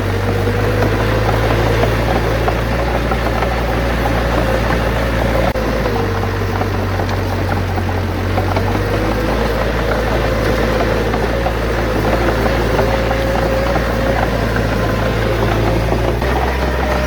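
A bulldozer's diesel engine runs steadily, with a wavering whine over the low engine hum.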